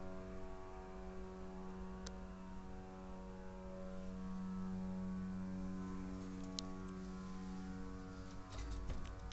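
A steady, low, droning hum made of several held tones, of the kind posted as a mysterious sound from the sky. A few faint clicks come through it, more of them near the end.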